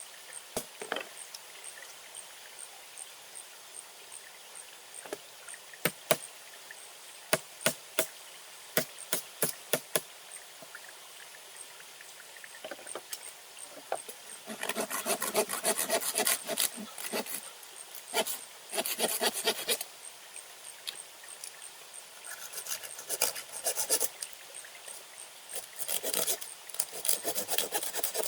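Hand work on wood: sharp knocks and taps through the first ten seconds, then several bouts of rasping, like sawing or scraping, each lasting one to three seconds.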